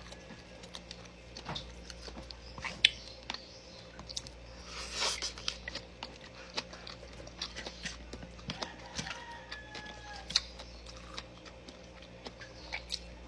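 Close-up eating sounds: chewing and wet mouth smacks with scattered small clicks as rice and chicken adobo are eaten by hand, over a faint steady low hum.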